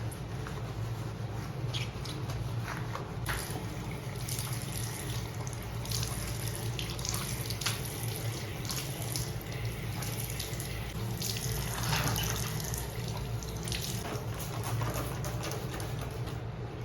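Water running from a tap and splashing in a sink, with scattered short knocks and splashes.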